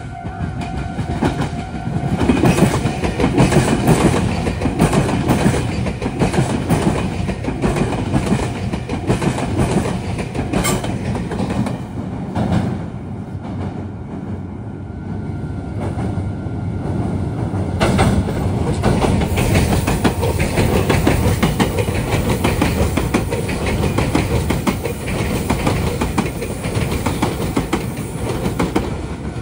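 Meitetsu electric train passing over the junction's points. The wheels clatter over rail joints and switches in a dense run of clicks, swelling loud about two seconds in and again later.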